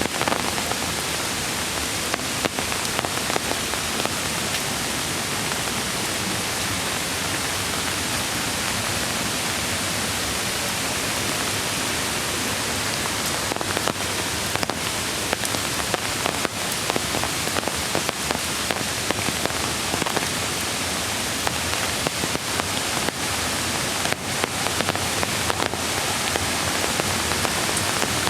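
Steady rain falling through the forest, an even hiss with scattered sharp taps of drops striking close by.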